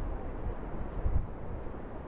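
Strong wind buffeting the microphone: an uneven low rumble with gusty thumps over a steady hiss.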